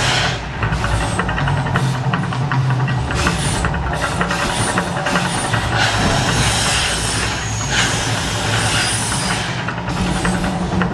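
Las Vegas Mirage Volcano show erupting: a loud, continuous rumbling roar with a rushing hiss that swells several times.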